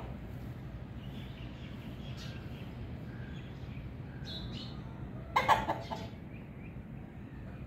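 Scattered short bird calls, clucking like farmyard fowl, over a steady low hum, with one loud sharp burst about five and a half seconds in.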